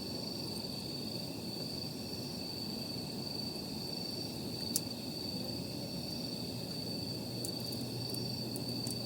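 Wood campfire burning with a low steady crackle and one sharp pop about halfway through, a few lighter snaps near the end, over a continuous high trill of night insects.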